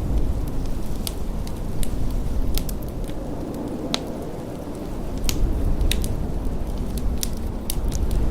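Wood fire crackling in a fireplace, with sharp irregular pops and snaps, over a steady low rush of blizzard wind.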